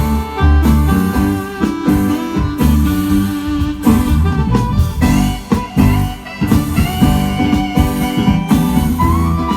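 Live band music: an instrumental break led by guitar, with sustained melodic notes over the band.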